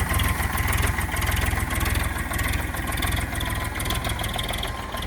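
Sonalika DI-740 tractor's diesel engine idling steadily with an even, regular chug.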